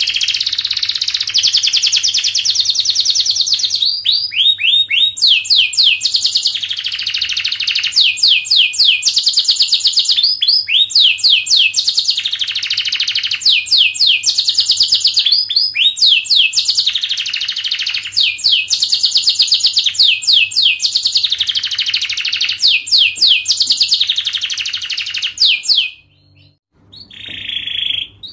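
Domestic canary singing a long, fast song: rapid trills of repeated notes broken by phrases of quick falling whistles. The song stops about two seconds before the end, followed by one short note.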